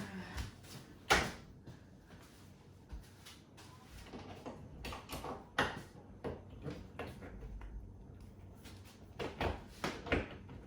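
Scattered knocks and clicks of a metal kitchen rail being worked into its wall brackets, a tight fit. The sharpest knocks come about a second in, around the middle and near the end.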